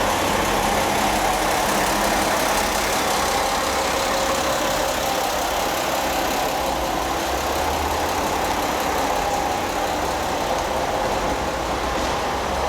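KiHa 47-based diesel railcar standing with its engine idling: a steady rumble and hum that holds even throughout.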